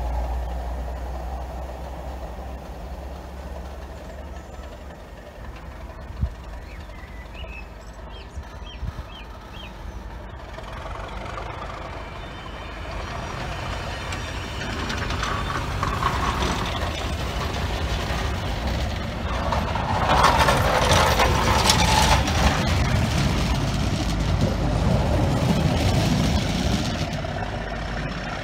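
A Structure Gauging Train's coaches rolling slowly past, a steady rumble of wheels and running gear. It is quieter at first and grows louder in the second half as the rear coaches come by.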